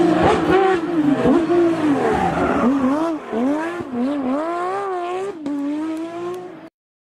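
Rally car engine revving hard, its note rising and falling repeatedly through gear changes and lifts, then cutting off suddenly near the end.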